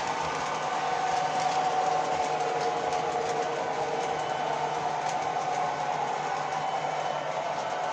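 A train running: a steady hum and rush with a few held tones and faint light clicks.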